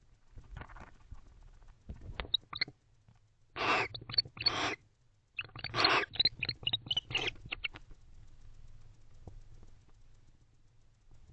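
Barn owls calling in a nest box: two harsh hissing calls about three and a half seconds in, followed by a quick run of short clicks and brief high chittering calls, with scuffling around them and a faint low hum throughout.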